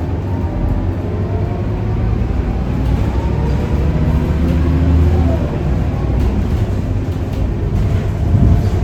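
Scania K230UB city bus's five-cylinder diesel engine pulling hard under acceleration. Its pitch climbs and shifts as the automatic gearbox kicks down and changes gear.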